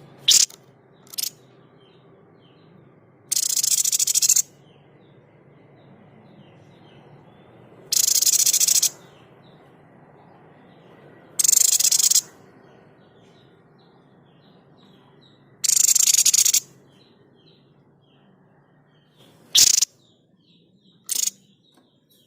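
White-chested babbler ('sniper bird') giving its harsh, noisy 'shot' calls. There are two quick sharp cracks, then four hissing bursts about a second long, one every four seconds or so, then two more sharp cracks near the end. Faint twittering of small birds or insects runs underneath.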